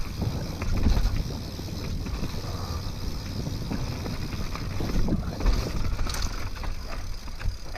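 Trek Remedy full-suspension mountain bike rolling fast down a dry, rooty dirt trail: a steady low rumble of tyres and wind on the camera microphone, with knocks and rattles of the bike over bumps. The loudest jolts come about a second in and again around five seconds.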